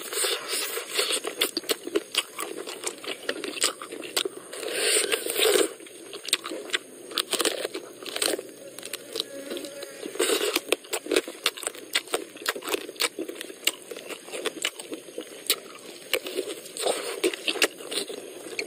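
Close-up mouth sounds of eating roasted goat leg: wet lip smacks and chewing clicks coming thick and irregular as meat and sinew are sucked and chewed off the bone, with a couple of longer slurps.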